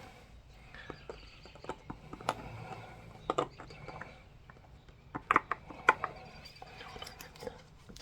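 Scattered light clicks and taps of hands working at a bare engine block as assembly lube is rubbed into the lifter bores by finger.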